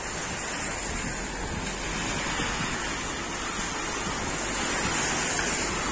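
Steady rain falling on a wet paved street, an even hiss that grows a little louder in the second half.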